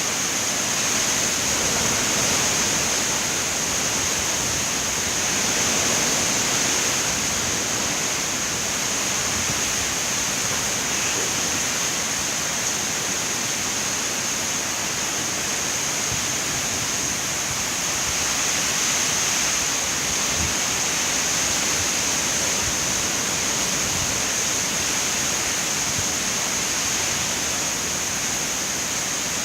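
Hurricane-force wind with rain, a steady loud rushing noise that swells and eases a little now and then.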